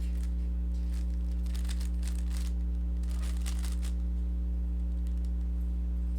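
Plastic Rubik's cube being turned through an algorithm: quick flurries of clicking and clacking layer turns, a few bursts a couple of seconds long, over a steady low electrical hum.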